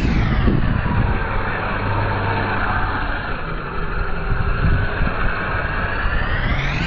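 Radio-controlled Kyosho Blizzard snow vehicles running on the trail, with a steady electric motor and gear whine over a rough rumble from the tracks.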